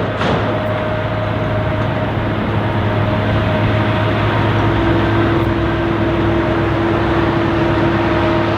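Airbus A330-302's GE CF6 jet engines running steadily: a loud, even rush with a constant whine, and a lower steady tone comes in about four seconds in.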